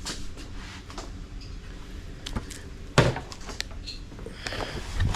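Objects being handled and moved about: scattered clicks and knocks, with a sharp knock about three seconds in and another near the end, over a low rumble.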